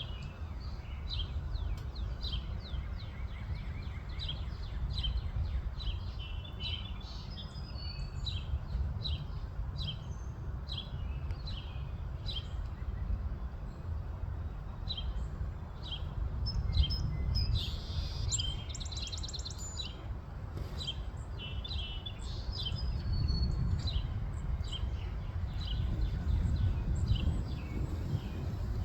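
Eastern towhee singing and calling: a run of short, sharp notes repeated about every half second to second, with a rapid trill about two-thirds of the way in. A steady low rumble runs underneath.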